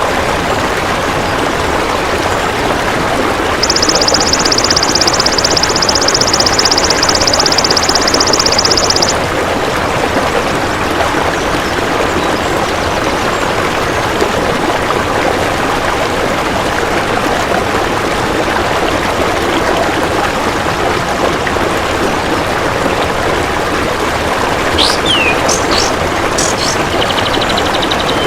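Steady rushing, water-like noise throughout. A high, rapidly pulsing insect buzz runs from about four seconds in to about nine seconds in. Near the end come a few quick bird chirps and short falling whistles.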